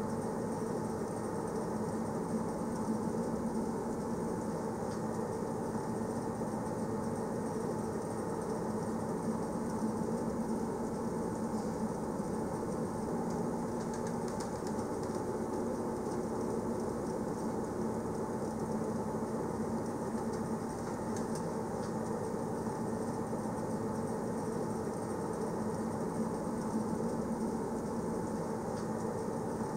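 Passenger train running along the rails, a steady, even running noise with a low hum and a few faint ticks.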